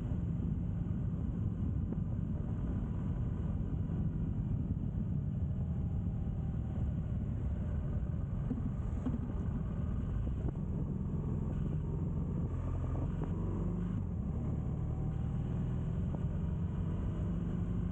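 A vehicle engine running steadily: a low rumble whose pitch shifts a little now and then.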